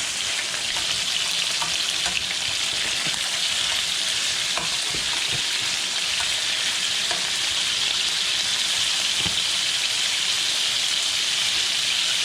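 Chicken pieces frying in shallow oil in a pan, a steady sizzle with scattered small pops and crackles.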